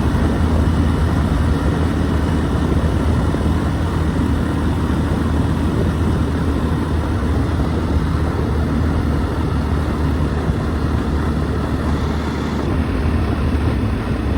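Motor vehicle engine running steadily and loudly, a low, even hum over a rushing noise, with no change in pace.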